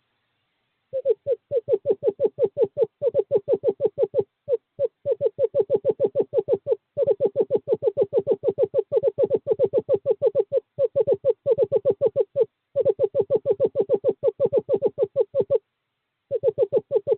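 Male screech owl giving a long trill on one pitch, a rapid, even run of low notes about eight to ten a second, broken by brief pauses. It is a courtship call to the female at the nest box.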